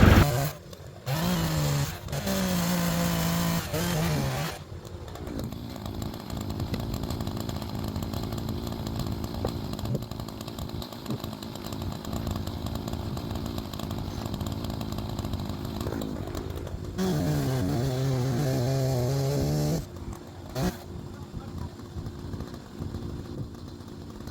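Chainsaw revving up and held at full throttle twice, for a few seconds about a second in and again near 17 seconds, as logs are bucked into rounds. Between the cuts a lower, steady engine noise runs on.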